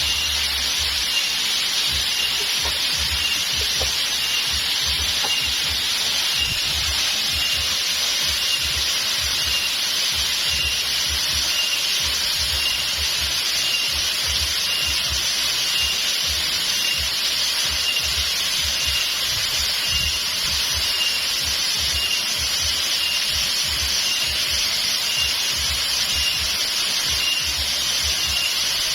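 Steady rush of flowing water with an even high hiss, and a faint high chirp repeating evenly about every two-thirds of a second.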